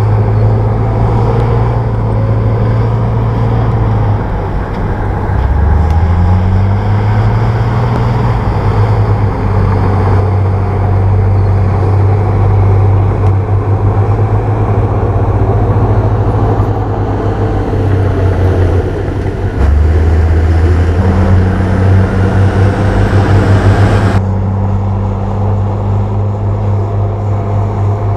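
Komatsu crawler bulldozer's diesel engine running under load as it pushes soil, its note twice dropping and climbing back as the load changes. The dense mechanical clatter over it thins out suddenly near the end.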